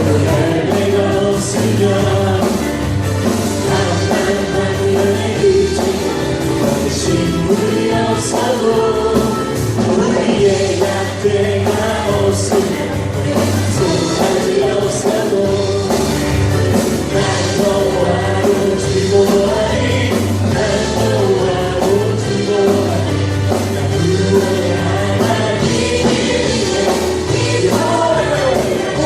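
Christian worship song sung by a group of singers over full instrumental accompaniment, with a steady bass and beat.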